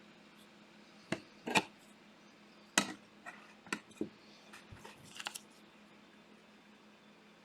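Hands handling trading cards and their plastic packaging: a string of sharp clicks and crinkles over a few seconds, then a low steady room hum.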